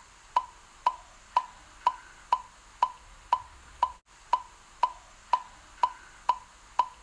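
A steady wood-block-like tick, about two short, pitched clicks a second, as in a simple background music beat.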